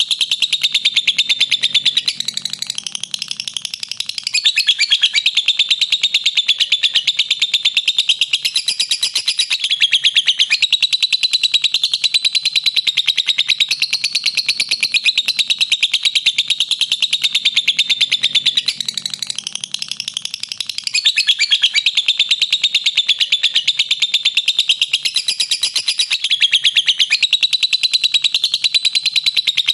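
Lovebird in long 'ngekek' chatter: an unbroken run of very rapid, shrill chips, easing softer twice for a couple of seconds before picking up again.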